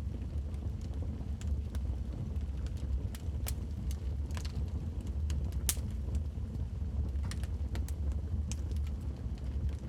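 Wood fire burning in a fireplace: a steady low rumble with irregular sharp crackles and pops from the burning logs, the loudest pop a little past the middle.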